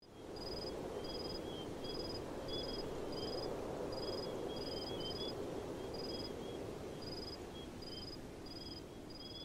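Fades in to a steady rushing background with a bird calling over it in short, high, level notes, repeated a little more than once a second, and softer warbling notes below.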